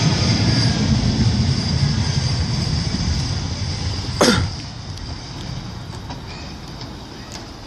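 Manchester Metrolink M5000 tram pulling into the platform, a low rumble with a steady high whine that fades as it slows to a stop. A single brief sharp sound, sweeping down in pitch, cuts in about four seconds in.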